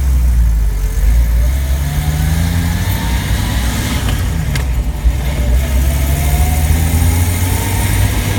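Jeep Wrangler YJ's 4.0 L inline-six and AX-15 drivetrain running under way, heard through an open hole in the floor. Its whine climbs in pitch twice as it accelerates, with a sharp click about halfway through.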